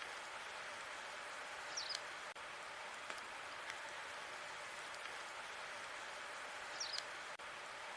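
Wood fire burning in a fireplace: a steady crackling hiss with a few sharp pops, and twice a short high squeak from the burning logs.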